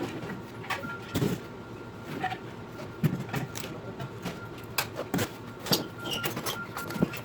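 Sped-up clatter of grill parts and tools being handled during assembly: a rapid, irregular run of knocks and clicks.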